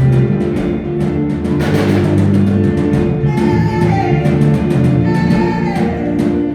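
Worship band music with a steady drum beat under sustained chords.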